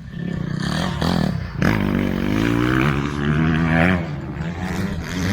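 Dirt bike engine running and revving, its pitch rising and falling for a couple of seconds near the middle.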